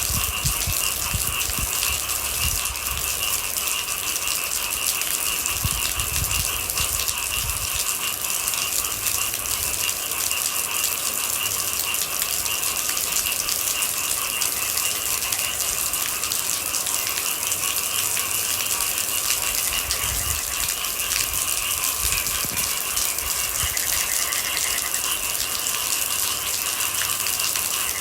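Steady rain falling in a dense, even hiss, with a constant higher-pitched chorus running through it and occasional low rumbles.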